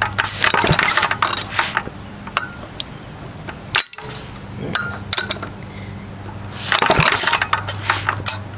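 Metal clinking and rattling as hands work on a small antique engine, in two bursts, about a second in and again near seven seconds, with one sharp click a little before four seconds. A low steady hum runs underneath.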